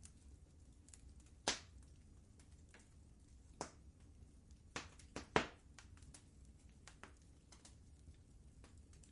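Wood fire crackling: scattered, irregular sharp pops over a low steady rumble, the loudest about a second and a half in and again just past five seconds.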